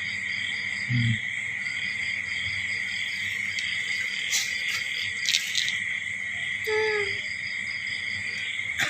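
Steady chorus of crickets or similar insects: a continuous high drone with a pulsing trill above it. About a second in there is a brief low sound, and near seven seconds a short call falling slightly in pitch.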